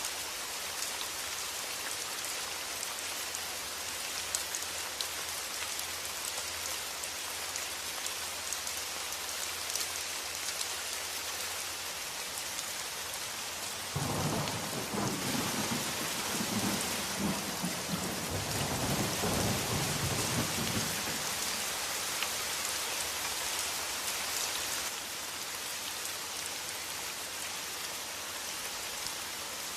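Steady heavy rain falling. About halfway through, a roll of thunder starts suddenly and rumbles low for about seven seconds before fading, with the rain going on underneath.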